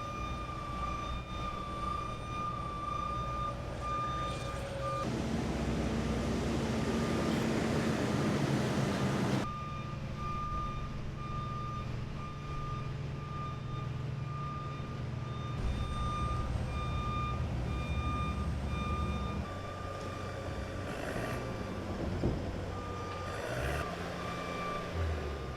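Backup alarm of heavy construction equipment beeping steadily in even pulses over a running diesel engine, with a louder rushing noise lasting about four seconds near the start.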